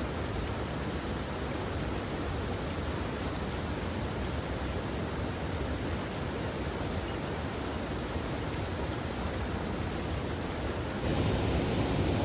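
Heavy rain falling, a steady even hiss with no distinct drops or tones. Near the end it abruptly becomes louder.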